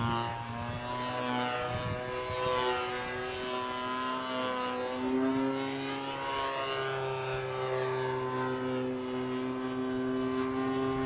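Turnigy 30cc single-cylinder two-stroke gasoline engine of a large RC model aerobatic plane in flight, a steady propeller drone whose pitch shifts slightly a few times as the plane moves and the throttle changes.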